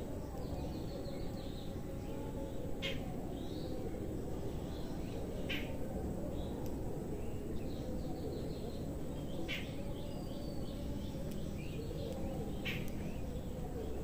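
Birds chirping in short calls, with a sharper call heard four times about three seconds apart, over a steady low background rumble.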